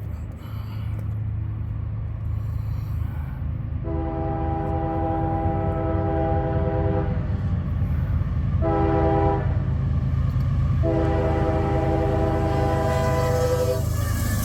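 An approaching diesel locomotive sounds its multi-note air horn in a long, a short and a long blast, the end of the grade-crossing signal, over the growing rumble of the locomotive and train.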